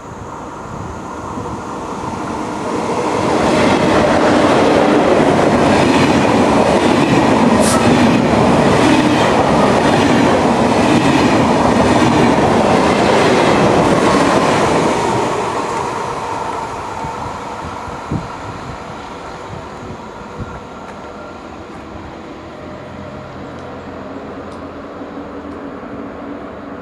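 A train passing at speed. The rushing rail noise swells over a few seconds, stays loud for about ten seconds with a rhythmic clatter of wheels over rail joints, then fades away.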